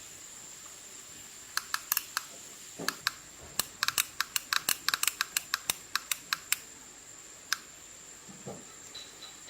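A quick irregular run of about twenty small sharp clicks over some five seconds, then a single click, over a steady faint high-pitched whine.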